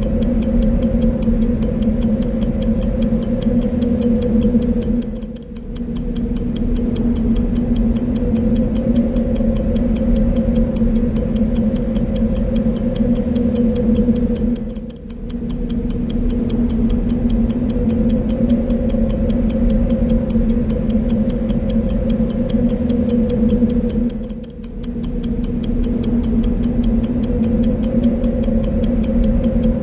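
Clock ticking steadily over a continuous wind-like white noise. The whole mix dips briefly about every ten seconds.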